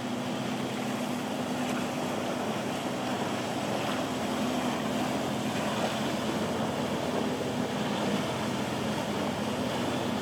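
Motorboat engines running with a steady low drone, over the wash of surf and wind.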